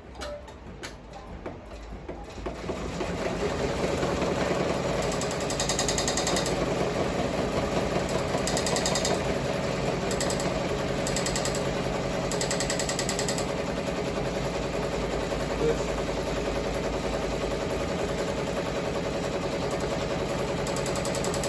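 Ricoma MT-1501 multi-needle embroidery machine stitching at speed: a fast, even mechanical chatter that builds up over the first couple of seconds and then runs steadily, with short higher-pitched patches now and then.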